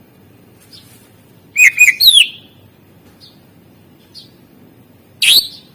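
Green leafbird (cucak ijo) singing: a quick run of three loud notes about a second and a half in, then a falling whistled note, with soft chirps between them and another loud call near the end.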